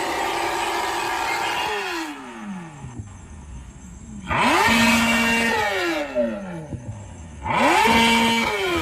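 Kawasaki ZX-10R's inline-four engine being revved. It holds high revs, then falls back to idle. It then blips up sharply twice, holding about a second each time before the revs drop away again.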